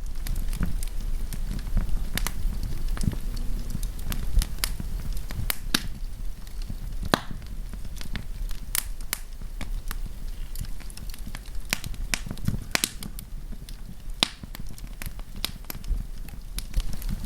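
Wood campfire crackling, with sharp irregular pops and snaps over a low steady rumble of the flames.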